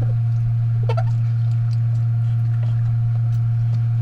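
A steady low hum, with faint scattered clicks and small eating sounds over it.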